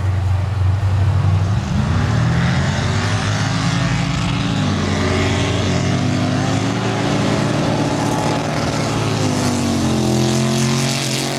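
Mud racing truck engines revving hard. The pitch climbs about two seconds in, holds high and loud through a run, then falls away near the end.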